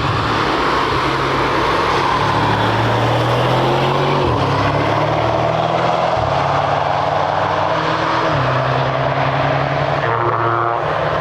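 Car engines running hard on a race track, with loud steady engine and road noise; the engine note jumps in pitch abruptly several times.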